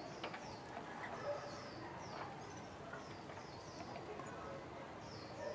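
Small birds chirping: a steady run of short, high, falling chirps, a few every second, with a couple of faint clicks.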